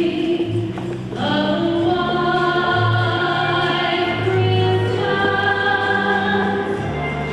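A choir singing long held chords that change every second or so.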